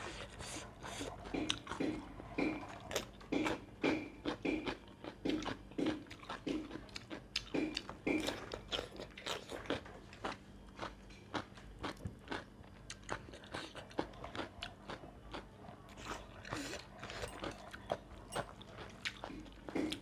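A person chewing and crunching food close to the microphone, with a steady run of short crunchy bites throughout.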